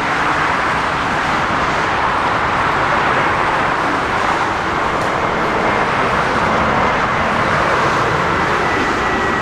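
Jet airliner engines heard as a steady rushing noise, with a faint high whine that slowly drops in pitch near the end.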